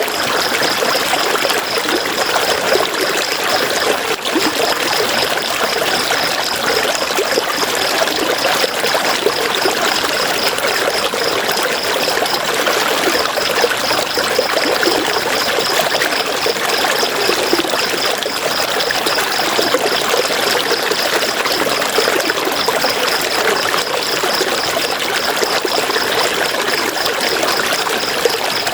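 River water flowing steadily over rocks, a continuous even rush. A high, rapidly pulsing chirp runs over it, breaking off briefly twice.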